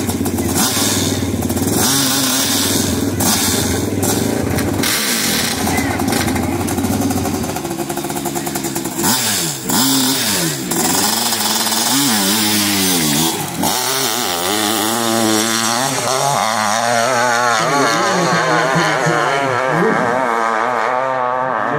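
600cc-class hillclimb motorcycle engine running hard on the climb. From about eight seconds in, its revs swing up and down again and again.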